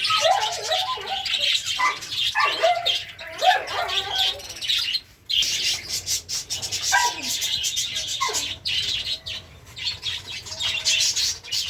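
A flock of small pet birds, finches and parakeets, chirping and chattering together. Dense high chirps go on throughout, with bursts of lower warbling calls every couple of seconds.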